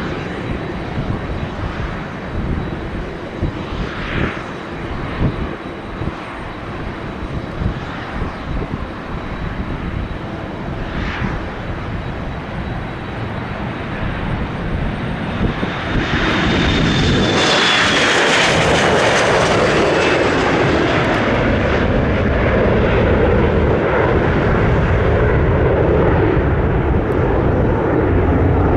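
Embraer 175 regional jet with its twin CF34 turbofans at takeoff power: at first a distant engine rumble under gusty wind noise on the microphone, then, about halfway through, a sudden rise to a loud, steady jet roar with a whine that drops slightly in pitch as the aircraft passes.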